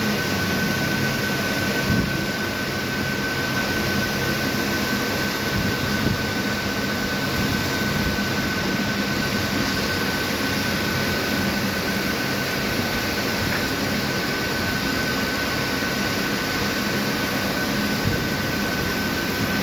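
Heavy lathe running and machining a metal pillar: steady machine noise with a constant high whine, a low hum, and a few faint knocks.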